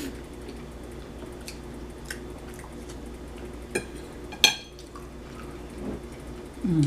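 Eating at a table: a fork clinks sharply against a plate about four and a half seconds in, with a smaller clink just before it and faint clicks of cutlery. Near the end there is a short falling hum.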